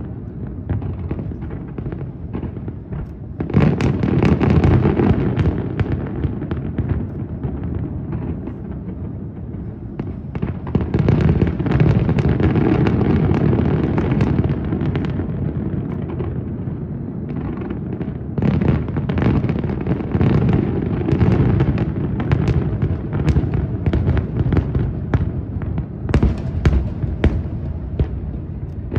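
Large fireworks display: a dense run of overlapping booms and crackling bursts that keeps going without a break. It swells louder about three seconds in, again around eleven seconds, and once more around eighteen seconds.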